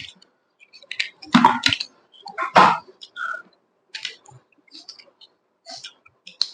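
Close-miked mukbang eating: a person chewing meat with irregular wet mouth clicks and smacks, and two louder bites about one and a half and two and a half seconds in.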